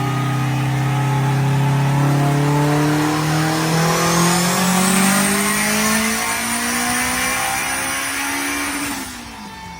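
A car engine accelerating hard, its pitch climbing steadily for several seconds with a high whine rising above it, then cut off abruptly near the end.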